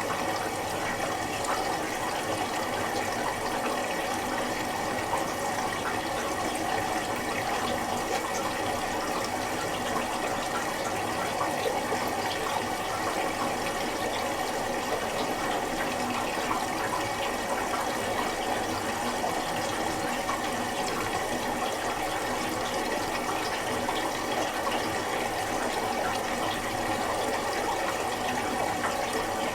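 Miele Little Giant PWM 507 commercial washing machine in its first rinse, with a steady rush of water in the drum, typical of the machine filling with rinse water.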